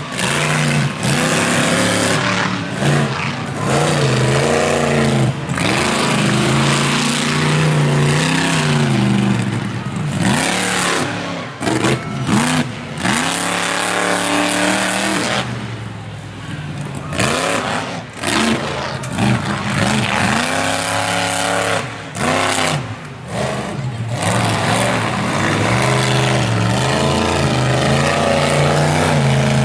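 Monster truck engine revving hard over and over, its pitch sweeping up and down with brief cut-outs between bursts of throttle.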